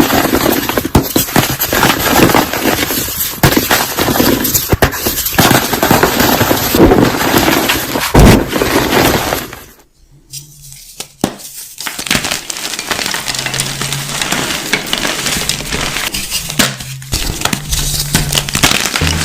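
Dense crisp crunching and crackling of things being crushed, a rapid run of sharp clicks and snaps. It drops out suddenly to near silence about halfway through, then comes back with low steady tones underneath.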